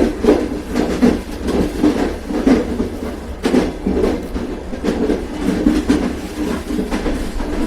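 Train running on rails, a steady low rumble with repeated clickety-clack knocks of the wheels passing over rail joints.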